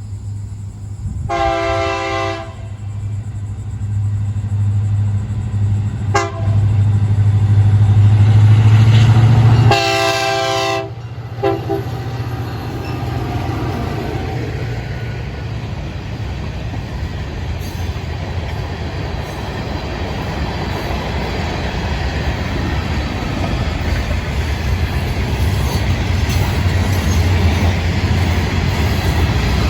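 Lead diesel locomotives of a freight train pass while sounding their air horn: a blast about a second in, a brief toot around six seconds, then a longer blast around ten seconds with a short one just after. The engine drone builds to its loudest just before the long blast. Then comes the steady rumble and clatter of the freight cars rolling by.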